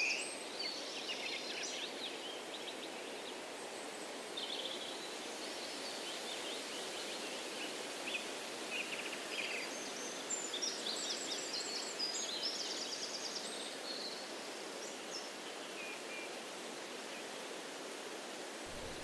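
Songbirds chirping and trilling in quick bursts, a cluster at the start and another about halfway through, over a steady rushing breeze in the trees.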